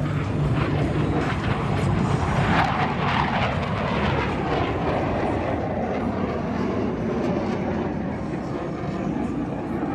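Jet aircraft engine roar. It swells about two to three seconds in, then slowly eases off.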